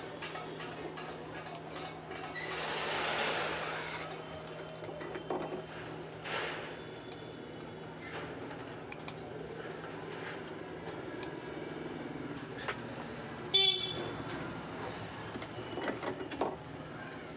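A steady low hum with faint clicks and handling noises, and a brief, loud, pitched honk a little over three-quarters of the way through.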